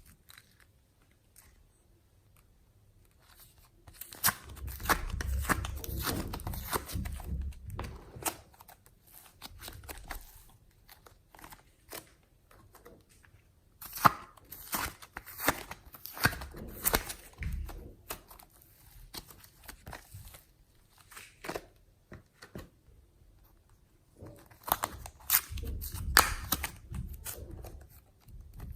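Slime being squeezed, pulled and mixed by hand, making crackling clicks and pops. These come in three busy spells, a few seconds in, around the middle and near the end, with sparser clicks in between.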